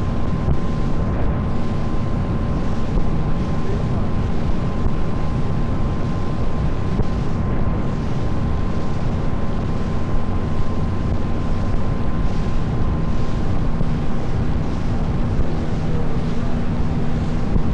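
Motor boat's engine running steadily at cruising speed, a constant drone with water rushing past the hull and wind buffeting the microphone.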